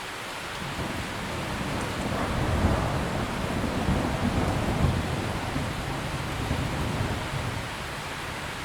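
Steady heavy rain with a long roll of thunder. The rumble builds soon after the start, is loudest in the middle, and dies away near the end.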